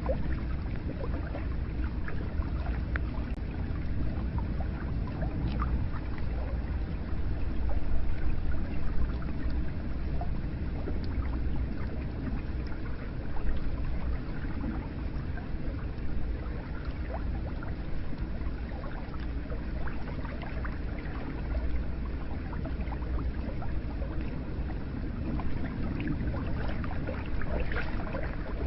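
Hot spring water flowing steadily into a bath: a continuous deep rushing of water with small scattered drips and splashes.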